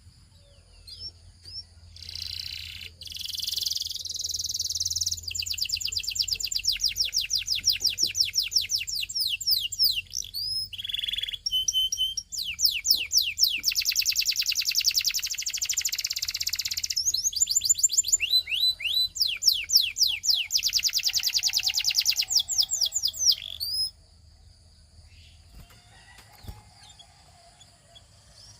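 Belgian singing canary singing long, rapid, high trills: series of quickly repeated notes strung into several phrases, with a short break about halfway. The song starts about two seconds in and stops about four seconds before the end.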